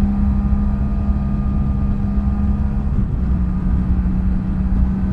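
BMW F800GS motorcycle's parallel-twin engine running at a steady cruise over a low rumble; the engine note breaks and dips briefly about three seconds in, then steadies again.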